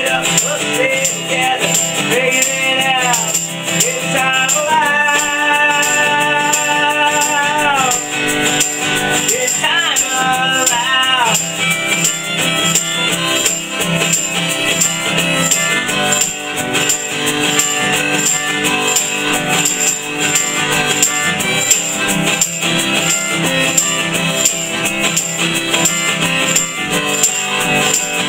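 Live acoustic folk music: strummed acoustic guitar with a shaker ticking in a fast, even rhythm. For roughly the first ten seconds a melody line bends and holds long notes above them.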